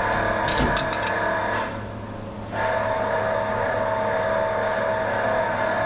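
A steady mechanical whine from a running motor or power tool, which drops away briefly about two seconds in and comes back. A few sharp clicks near the start.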